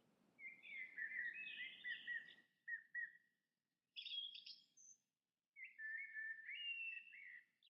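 Bird song: three phrases of quick, chirping notes that shift in pitch, the first about three seconds long and the next two shorter, with short pauses between them.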